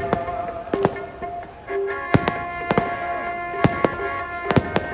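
Aerial fireworks bursting overhead: a series of sharp bangs at uneven intervals, with a quick cluster of three near the end. Music plays underneath throughout.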